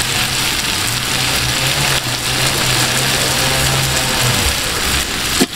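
Onion, tomato and green-chilli masala sizzling and frying in a large aluminium pot, a steady hiss. A low steady hum joins it about a second in and fades out around four seconds.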